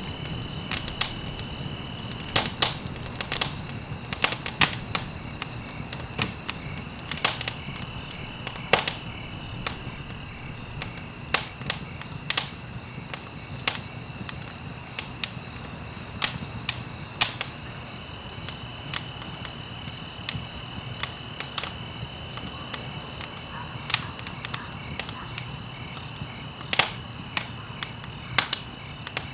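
Wood fire crackling: irregular sharp pops and snaps over a steady low rumble of burning. A faint steady high tone runs underneath and drops out for a few seconds midway.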